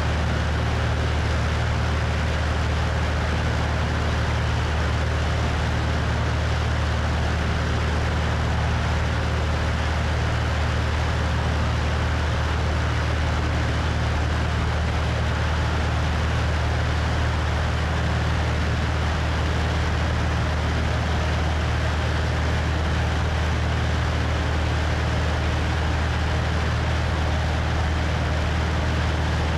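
Cessna 172's piston engine and propeller droning steadily in flight, with wind rushing over the wing-mounted microphone. The low hum holds an even pitch throughout.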